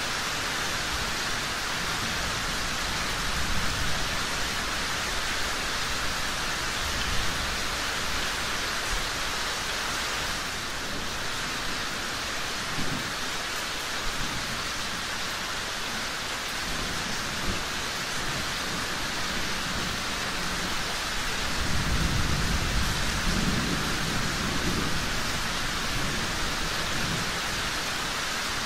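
Steady rain falling, with low rumbles of distant thunder, a longer roll of it about three-quarters of the way through.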